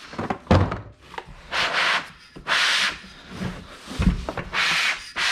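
Parts and packaging being handled: several short rubbing, scraping strokes, each under a second, with a knock about half a second in and another about four seconds in.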